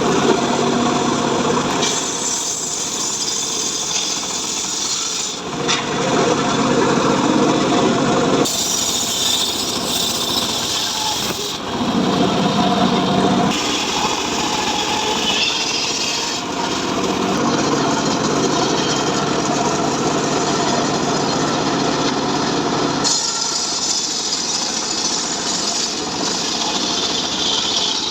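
Power saw cutting through mahogany wood, running continuously under load, its tone shifting every few seconds as the cut goes on.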